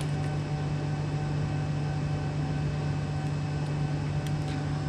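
Steady low mechanical hum with a fainter, higher steady whine, unchanging throughout, with a couple of faint light clicks.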